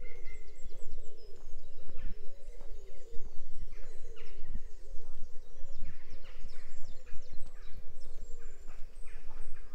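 Songbirds singing, with many overlapping short chirps and trills, over a low rumble with frequent soft knocks, likely the walker's footsteps.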